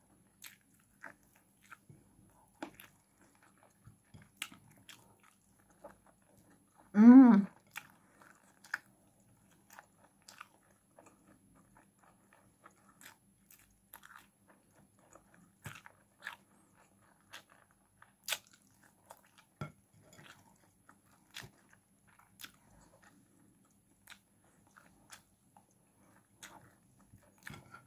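Close-up mouth sounds of a person eating chicken and rice by hand: chewing, biting and sharp wet clicks and smacks scattered through. About seven seconds in comes one brief, louder voiced sound from the eater.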